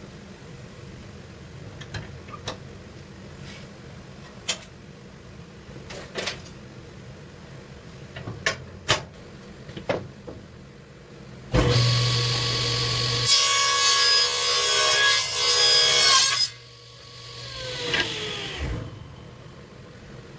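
Powermatic 65 table saw: a few scattered clicks and knocks, then the motor starts suddenly and the blade spins up with a steady hum and whine. A board is cut for about three seconds, and after the saw is switched off the blade coasts down with a falling whine.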